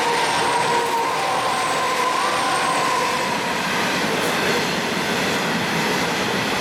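A Pacific National 90 class diesel locomotive passing close below, followed by empty coal hopper wagons running over the rails with steady, loud wheel and wagon noise. A faint wavering high tone sounds over it for the first few seconds.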